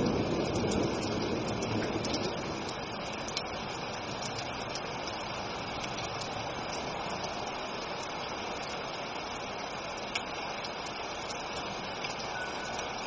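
Steady rain hiss with scattered ticks of drops, and the low rumble of a thunderclap dying away over the first couple of seconds. A faint chime tone begins near the end.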